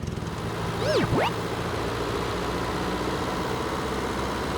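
Tractor engine running with a steady low drone. About a second in there is a brief, louder swooping sound that drops and then rises in pitch.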